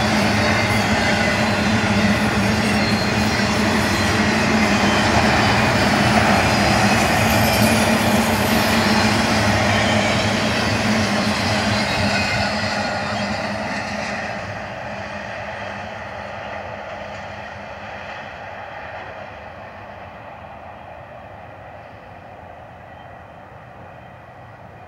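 Intermodal freight cars carrying highway trailers rolling past on steel rails, a loud steady rumble and rattle of wheels. About halfway through the last car goes by and the noise fades steadily as the train moves away.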